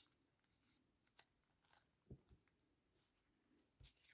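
Near silence: room tone with a few faint taps and handling noises, about one, two and four seconds in.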